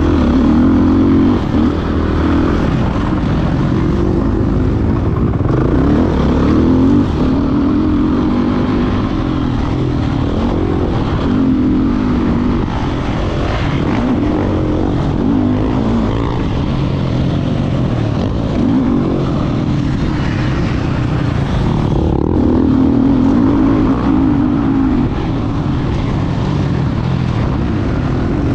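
Motocross dirt bike engine running hard, its revs rising and falling in repeated surges, with a brief drop in the noise about 22 seconds in.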